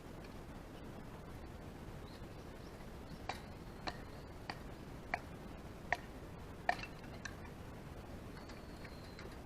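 Small wood fire crackling in a camp fire pit: a run of about seven sharp pops, roughly every half second, over a low steady hiss.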